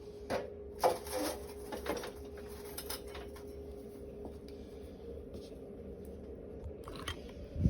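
A few scattered knocks and clanks of things being handled at a wood-burning stove as its coals are readied for grilling, with a louder knock near the end, over a faint steady hum.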